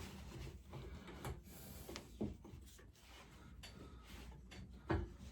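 Faint handling noises from hands working on a lawnmower's parts: light rubbing with two short knocks, one about two seconds in and a louder one near the end.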